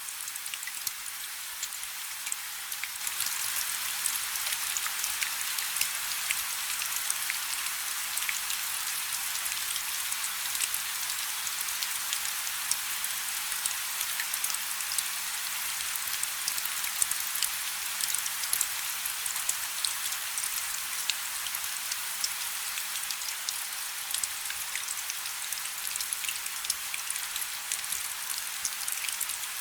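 Rain falling on a river, a dense steady patter of many small drops hitting the water. It grows a little louder about three seconds in.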